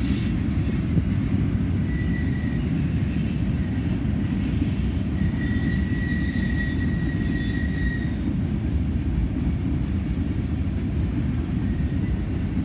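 Freight cars of a long CSX merchandise train rolling past, a steady heavy rumble of wheels on rail. Thin high wheel squeal rises over it from about two seconds in, fades around eight seconds, and returns near the end.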